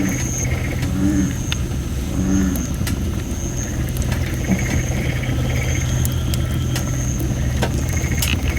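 Campfire of thin, under-dried red robin (Photinia) wood, with scattered crackles and pops and a high hissing whistle from moisture that comes and goes. American bullfrogs call low and deep three times in the first few seconds, over a steady low rumble.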